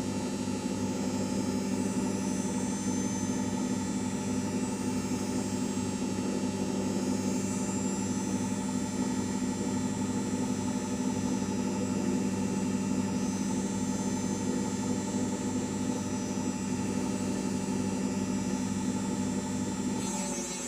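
LG 5 kg washing machine running at speed: a steady hum with a whine of several held tones from the motor and spinning drum.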